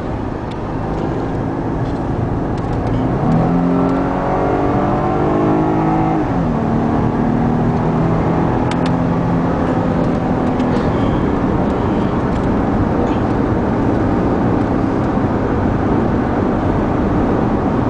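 Porsche Panamera engine heard from inside the cabin, revving up under acceleration: its pitch climbs from about three seconds in, drops sharply about six seconds in as the gearbox shifts up, then holds steady at cruising speed over road and wind noise.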